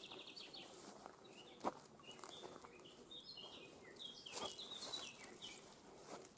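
Faint birdsong: small birds chirping in short high notes and quick stepped trills. Two sharp clicks come about two seconds and four and a half seconds in.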